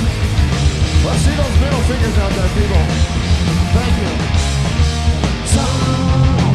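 Punk rock band playing live: electric guitars, bass and drums in a fast, loud instrumental passage.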